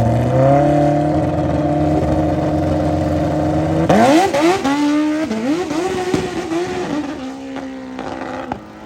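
Small mini bike engines running at a steady high speed, then, about four seconds in, revved in quick rising and falling blips before settling toward a steady lower idle.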